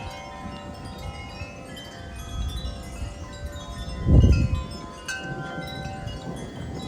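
Wind chimes ringing in gusty wind, many overlapping tones sounding on and off. About four seconds in, a brief low rumble is the loudest sound.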